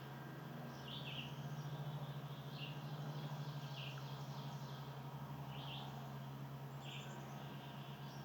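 A bird giving a short, sharp call note over and over, about every second and a half, over a steady low hum.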